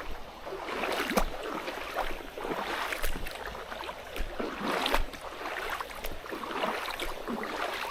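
Uneven footsteps splashing and sloshing through a shallow mountain stream over rocks, with the stream's running water behind.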